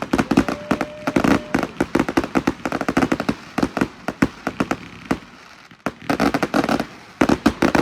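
Consumer firework cake firing a rapid string of sharp reports and crackling breaks. The shots thin out briefly a little past the midpoint, then pick up again.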